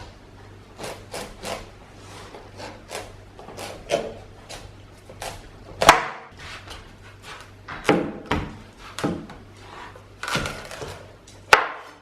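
Irregular taps and knocks on wood, as in kitchen work on a wooden board, with a few louder knocks in the second half.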